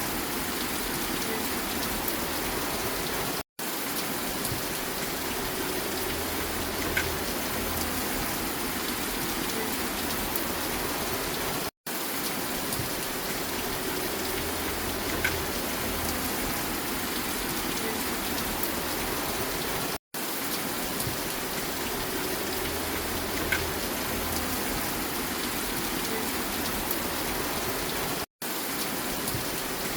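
Steady rain falling, with a few single drips standing out. The sound drops out completely for an instant four times, about every eight seconds, where a short rain recording loops.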